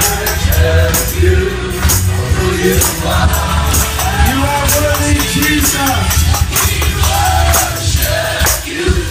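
Live gospel praise and worship music: voices singing over a band with a steady, sharp percussion beat and heavy bass.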